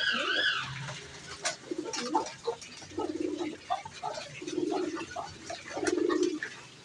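Domestic pigeons cooing: low, throaty coos about three seconds in and again near five and six seconds, with a brief high chirping call at the very start and a few small clicks in between.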